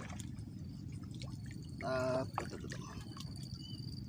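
Water dripping and trickling, with scattered small ticks and a steady low rush. A short hum-like voice sound comes about two seconds in, and a steady high insect trill begins around then.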